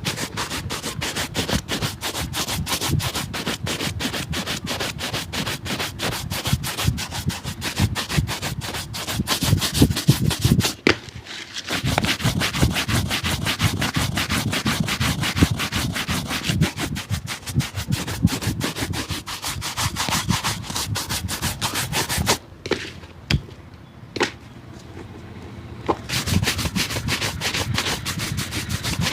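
Rapid, continuous rubbing strokes on a shoe, stopping for a moment about eleven seconds in and again for a few seconds near the end, where only a few clicks are heard.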